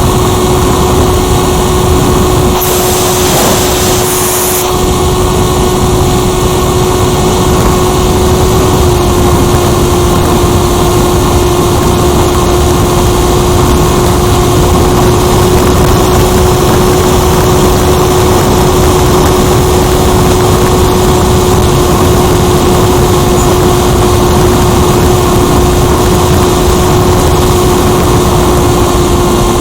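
Firstar 2000 RC motor glider heard from its onboard camera in flight: the motor and propeller run with a steady whine over heavy wind rush. There is a brief burst of hiss about three seconds in.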